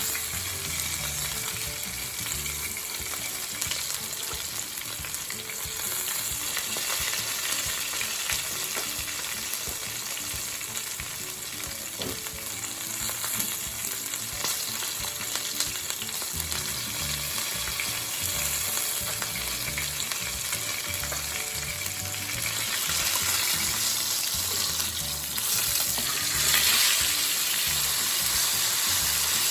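Steak and vegetables sizzling as they fry in pans, a steady hissing sizzle that gets louder about 23 seconds in.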